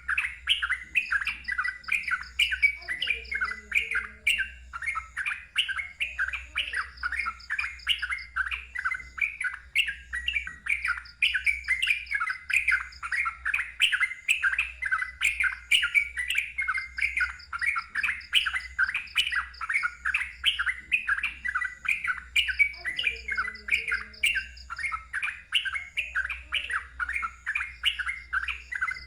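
Yellow-vented bulbul (trucukan) singing loudly in a rapid, unbroken chatter of short repeated notes, several a second, with a fainter higher trill coming and going behind it.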